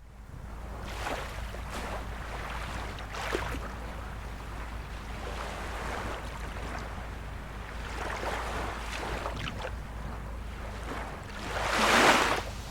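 Small sea waves lapping and splashing on the shore, with a larger wave washing in about twelve seconds in, the loudest moment. A steady low rumble runs underneath.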